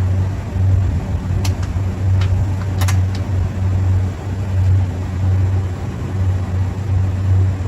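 Running machinery giving a steady low hum that swells and eases slightly, with a few sharp clicks or taps between about one and a half and three seconds in.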